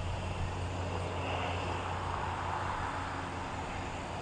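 Distant jet aircraft engine noise: a steady, even rumble with a low hum underneath.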